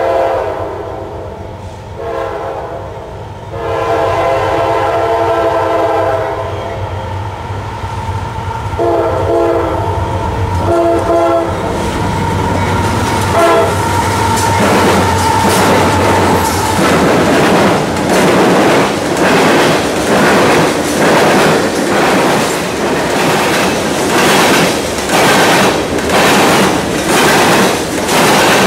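CSX freight train passing close by. The diesel locomotives' horn sounds a series of blasts over the first dozen seconds while the locomotives go by with a low drone. From about halfway in, the freight cars' wheels clatter over rail joints in a steady rhythm of about one clack a second.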